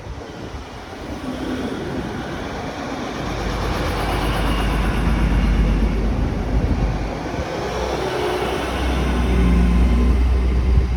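Passenger train moving through the station: a low rumble that builds from about three seconds in and stays loud.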